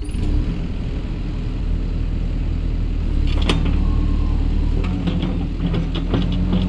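Yanmar SV100 excavator's diesel engine running steadily under work, with sharp knocks about halfway through and several more near the end.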